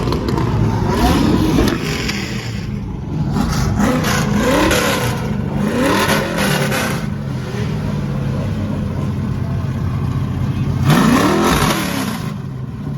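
Car engines revving repeatedly over a steady idle, with several rising revs; the loudest rev comes about eleven seconds in.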